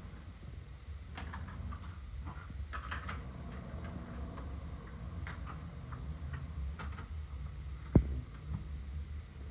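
Light handling noises: scattered clicks and taps over a low steady hum, with one sharp knock about eight seconds in.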